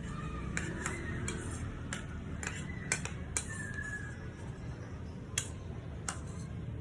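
Metal spoon clinking and scraping against a bowl of porridge while feeding, with about nine sharp, unevenly spaced taps, over a steady low hum.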